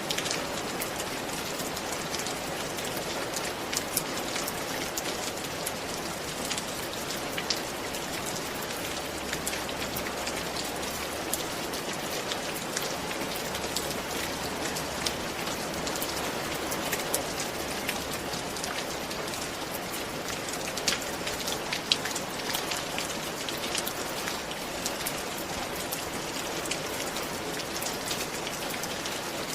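Steady rain falling on a surface, with an even hiss and many individual drops pattering throughout, a few sharper drop hits standing out.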